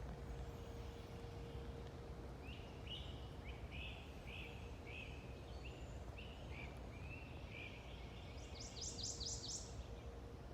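A songbird calling outdoors: a series of short repeated chirps, about two a second, then a quicker, higher run of five notes near the end, over a steady low rumble and a faint steady hum.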